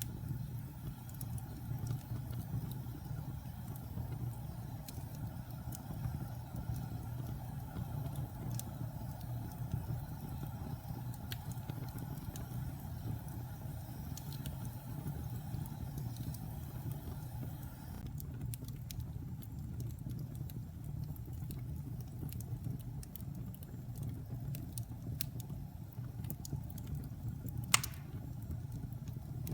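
Fire burning in a fireplace: a steady low rumble with scattered faint crackles, and one loud sharp pop near the end.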